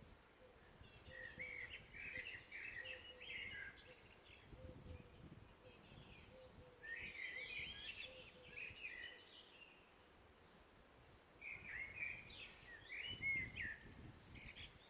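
Songbirds singing faintly in three bursts of chirps and quick high trills, a few seconds apart.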